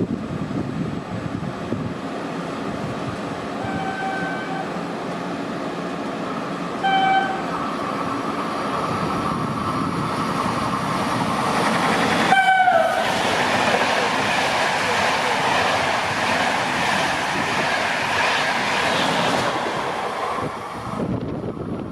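A train passing through the station: its horn sounds twice on approach, a longer note and then a short toot. It sounds again as it goes by, dropping in pitch, followed by the loud, steady clatter of the train running past on the rails, which cuts off shortly before the end.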